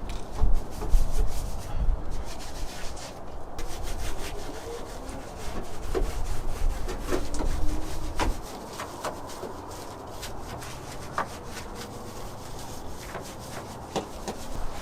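Hand scrubbing and rubbing on engine-bay parts during cleaning, with scattered light clicks and knocks.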